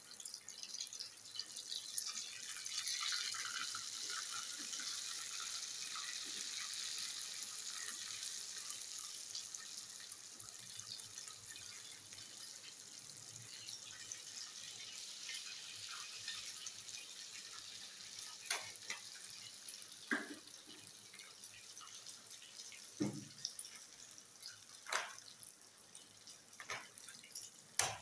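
Kababs sizzling as they deep-fry in hot ghee in a karahi, an even hiss that is strongest in the first few seconds and then slowly dies down. Several sharp knocks come in the second half.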